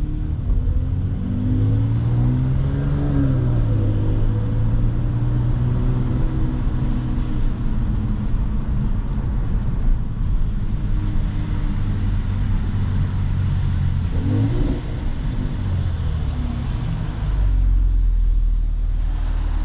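Mercedes-AMG C43 engine and exhaust pulling through gears at moderate speed. The engine note climbs and drops twice, about two seconds in and again around fourteen seconds, and holds a steady drone in between. A deeper low rumble comes in near the end.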